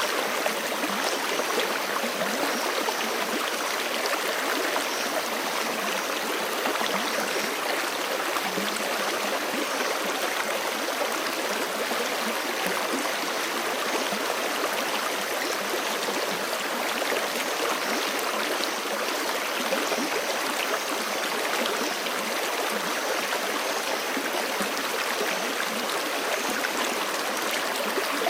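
Forest stream rushing steadily over rocks, a constant even water sound with no let-up.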